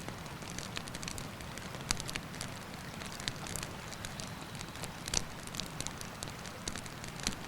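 Wood campfire crackling, with sharp pops at irregular moments every second or two over a steady rushing background of the river.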